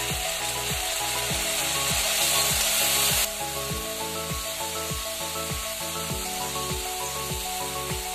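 Chopped vegetables sizzling in a hot wok just after soya sauce is poured in, with a steel ladle stirring and scraping against the pan; the sizzle gets quieter about three seconds in. Background music with a steady beat plays underneath.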